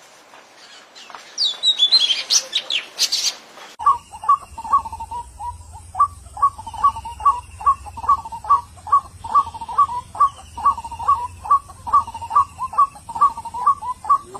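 Birds chirping in high, quick calls for about four seconds. Then a different recording cuts in: short call notes repeated about twice a second, with faint falling whistles above and a low hum beneath.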